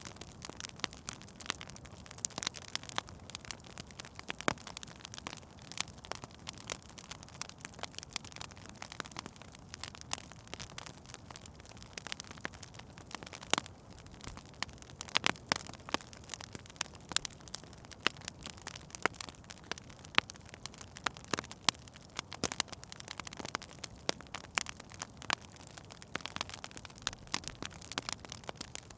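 Wood fire in a fireplace crackling: irregular sharp pops and snaps over a soft steady hiss, with a few louder pops around the middle.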